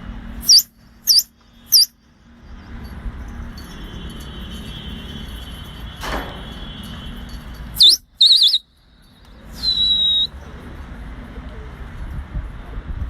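A series of shrill whistles: three short swooping ones in quick succession, then, after a pause, two warbling ones and a longer held whistle that tails off slightly.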